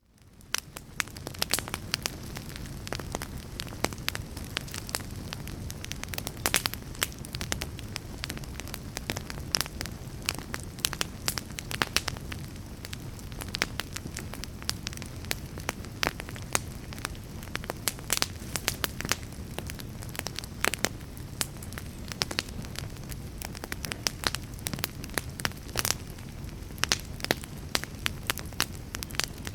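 Fire crackling: a steady low rumble of flames with frequent sharp pops and snaps. It fades in over about the first second.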